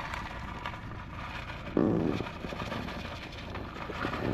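Steady car noise from inside a slowly moving or idling car, with two short, louder low sounds, one about two seconds in and one near the end.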